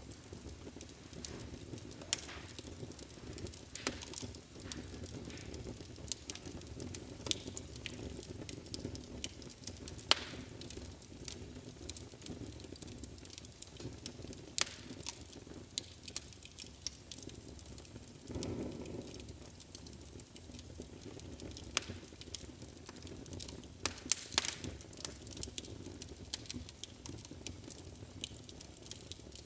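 Wood fire burning in a fireplace: a steady low rush of flame with frequent irregular crackles and sharp pops, and a brief soft swell of flame about two-thirds of the way through.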